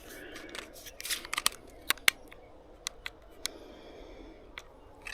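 A DJI Mini 2 drone being handled as its battery is fitted: a string of sharp plastic clicks, most of them between one and three and a half seconds in, over a low rustling.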